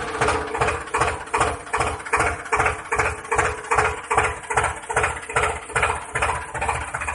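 Tractor engine chugging at idle in a steady, even rhythm of about three beats a second.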